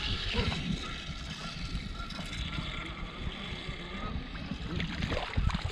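Wind rumbling on the microphone over the steady noise of a small fishing boat on the water, with a faint, even hiss throughout.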